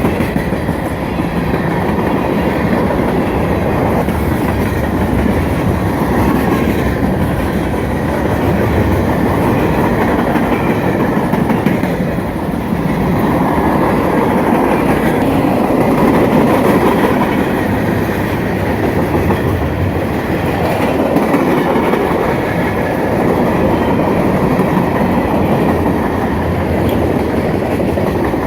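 Manifest freight train's cars rolling past steadily, steel wheels clacking over the rail joints in a continuous loud rumble.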